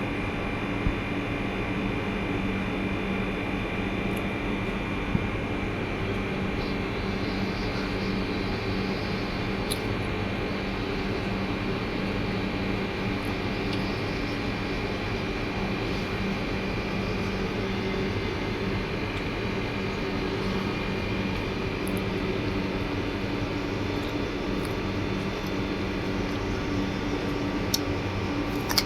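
Steady machine hum, like a fan or air conditioner running, with a few faint clicks.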